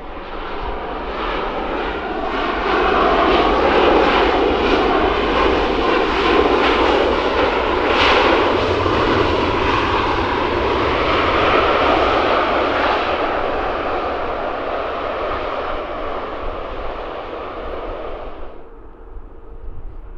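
Jet engines of a Ryanair Boeing 737 airliner passing close on the runway. The sound builds over a few seconds, stays loud for about ten seconds, then fades and cuts off abruptly near the end.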